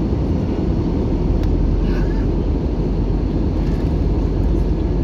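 Steady low rumble of an Airbus A321-200 airliner's engines and airflow heard from inside the passenger cabin.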